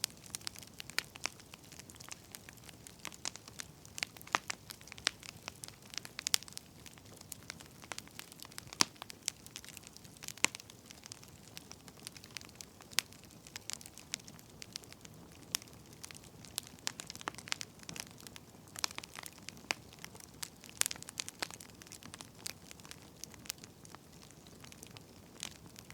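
Wood fire crackling: irregular sharp pops and snaps over a soft low hiss.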